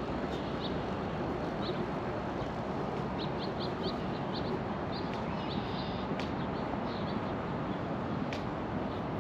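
Small birds chirping in short high notes, with a quick run of four chirps about three seconds in, over a steady background rumble.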